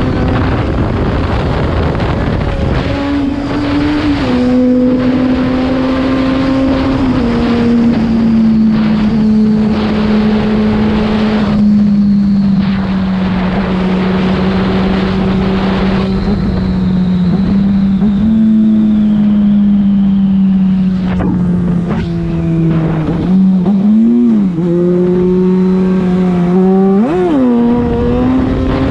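Yamaha FZ6's inline-four engine running through a LeoVince aftermarket exhaust while riding, over wind rush. The engine note steps down a little early on, then holds fairly steady as it cruises, with two quick rises and falls near the end.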